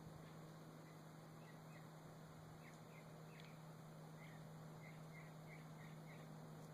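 Faint short chirps from turkeys, a few scattered and then a run of about six evenly spaced ones in the second half, over a steady low hum.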